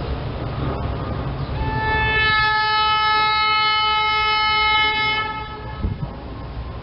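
SEPTA Silverliner electric commuter train sounding one long blast on its air horn, several notes held together at a steady pitch for about four seconds, over the low rumble of the train on the tracks.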